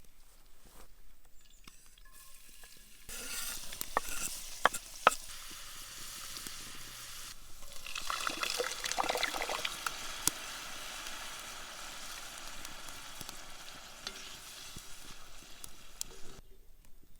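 Food frying in a pan, sizzling steadily, with a few sharp clicks of a utensil against the pan as it is stirred. The sizzle starts about three seconds in, swells in the middle and stops suddenly shortly before the end.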